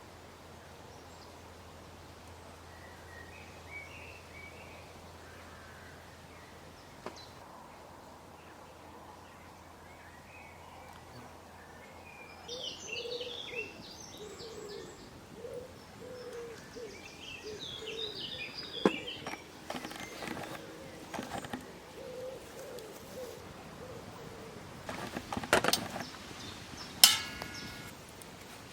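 Woodland birds chirping, with a few sharp knocks and one ringing, metallic-sounding clink near the end.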